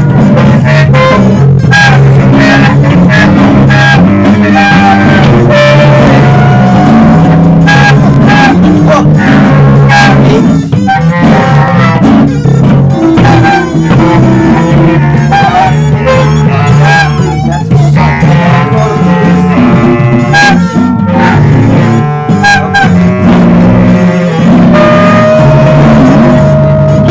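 Loud instrumental band music: electric bass, guitar and wind instruments playing together, with held melody notes over a busy bass line.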